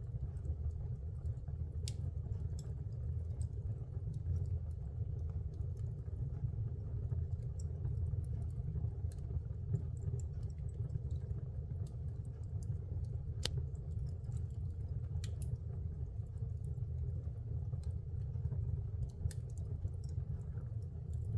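Fire burning in a fireplace: a steady low rumble with scattered sharp crackles and pops, one louder pop about halfway through.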